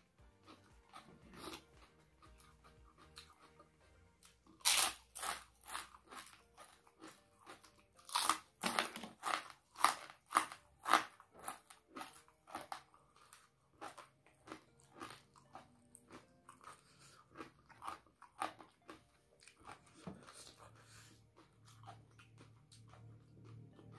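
Close-up eating sounds from a mukbang of raw red chilies and crisp crackers: a run of loud, crisp crunching bites and chewing from about five seconds in, easing to quieter chewing in the second half.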